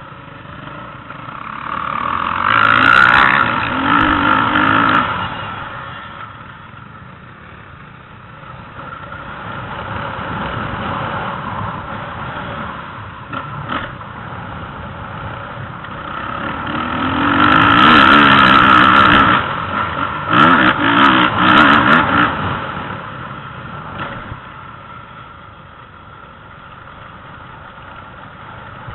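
Motocross dirt bikes revving on the track, loudest as they pass close: once about three seconds in, and again, loudest of all, from about eighteen to twenty-two seconds in, with the throttle chopped on and off.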